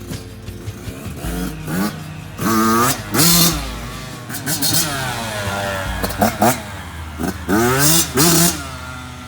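Dirt bike engine accelerating hard in repeated bursts, its pitch climbing with each run of throttle and dropping back between them, about four or five times.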